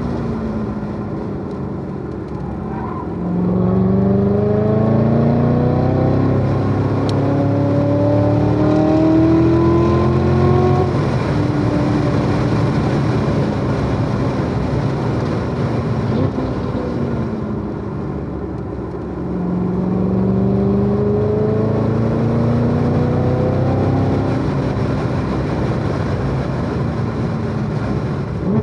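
Chevrolet Corvette C7 Z06's supercharged V8 under hard acceleration on track: the engine note climbs in pitch for several seconds, drops back about eleven seconds in as the driver lifts or shifts, then climbs again in a second pull.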